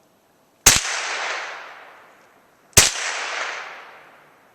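Two shots from a Marlin 795 .22 LR semi-automatic rifle, about two seconds apart, each followed by a long echo dying away.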